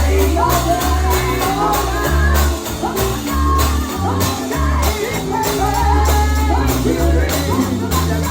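Live gospel singing with band accompaniment: voices gliding over a stepping bass line and a steady percussion beat.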